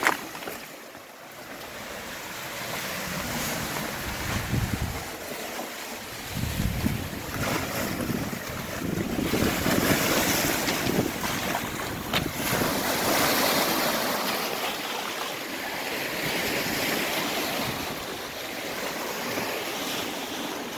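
Lake Superior waves washing against the rocky shore, swelling and ebbing, with wind gusting on the microphone.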